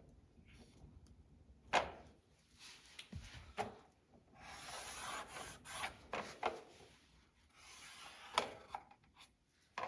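A marker drawing a cut line on a plastic rocker panel: faint rubbing strokes about a second long, with light clicks and knocks from handling in between.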